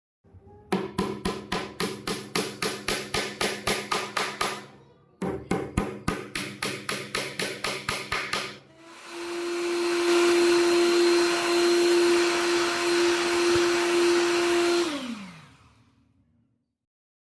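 An electric power tool at work on wood: two runs of rhythmic knocking, about five strokes a second over a steady motor hum, then the motor running steadily with a high hiss before it is switched off and winds down, its pitch falling.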